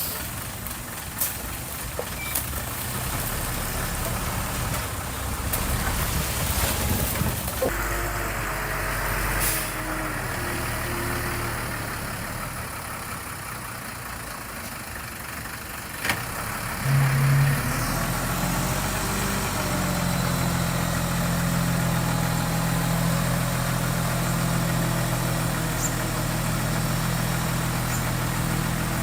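Diesel engine of heavy construction machinery, a bulldozer or dump truck, running steadily. Its note shifts about eight seconds in. There is a sharp knock about sixteen seconds in, after which the engine hum holds steadier and stronger.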